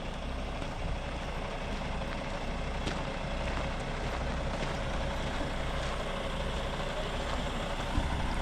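Truck engine running steadily with a low rumble and a faint steady hum above it.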